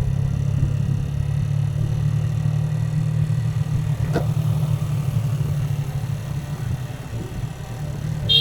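Motorcycle engine running steadily while riding, a low even hum.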